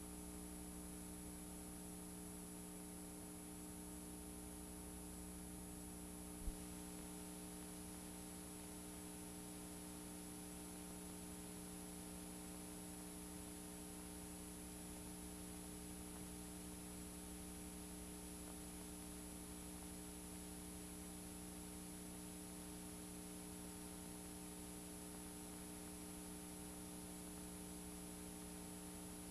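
Steady electrical hum, made of several steady tones over a faint hiss: the noise floor of a VHS tape transfer with no programme sound. A single short click about six seconds in.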